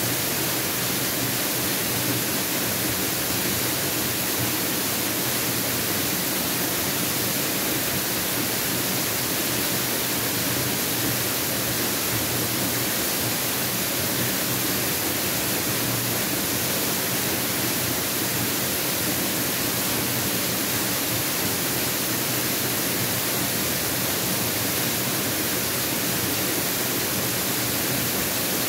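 Mountain waterfall: a steady, unbroken rush of falling water, with much hiss in the highs.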